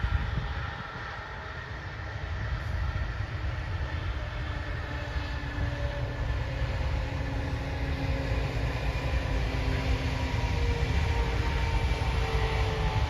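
Heavy truck engines labouring uphill: a steady low rumble with engine tones that slowly drift in pitch, growing gradually louder.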